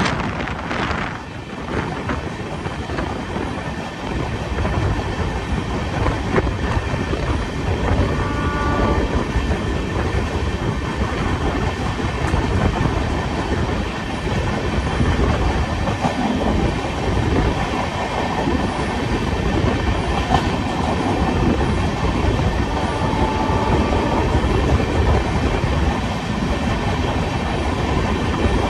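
Express train's LHB passenger coaches running at about 55 km/h, heard from the coach side: a steady rumble and clatter of wheels on the rails.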